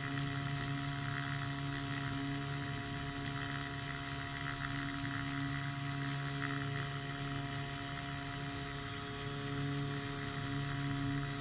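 Powered hang glider's piston engine running at a steady drone with its propeller, an even, unchanging pitch.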